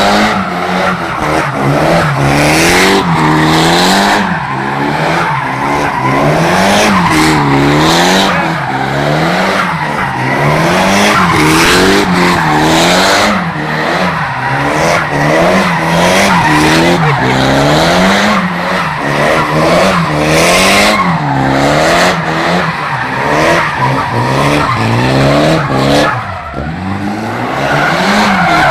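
Tuned Nissan 200SX engine revving hard, its pitch climbing and dropping about once a second as the throttle is worked, over continuous tyre squeal and skidding from a burnout or drift.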